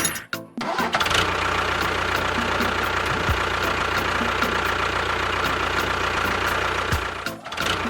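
An engine running steadily with a low, even drone. It breaks off briefly just after the start and again near the end, as at edit cuts.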